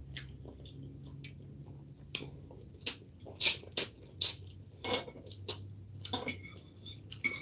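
Close-miked wet chewing and lip-smacking mouth sounds while eating, a string of short sharp smacks and clicks, over a faint steady low hum.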